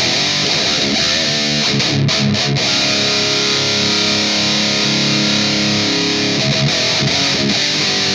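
Distorted electric guitar playing a riff. A chord rings out for a few seconds in the middle, then the picking resumes.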